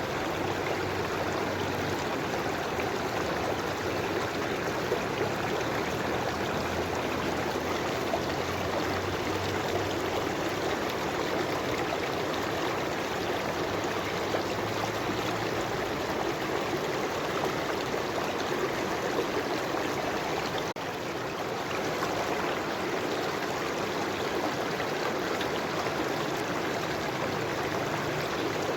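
River water flowing over rocks, a steady rushing and burbling with a brief slight dip about three-quarters of the way through.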